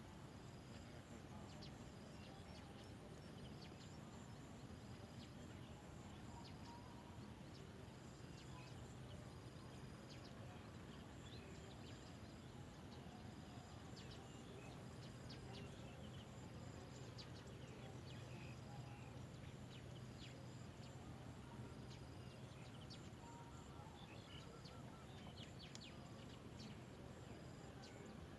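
Faint outdoor ambience with a short, high call repeating about once a second, insect or bird, and a few scattered faint chirps.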